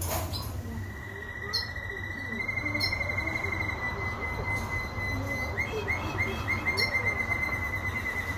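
Domestic canary singing a long, rapid trill held on one pitch, with a few sharp higher notes over it. A steady low hum runs underneath.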